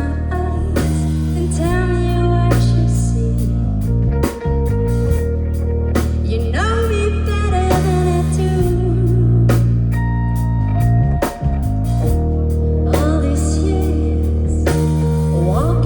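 Band playing live: a drum kit keeping a steady beat, bass holding long low notes that change every couple of seconds, guitar, and a singing voice over the top.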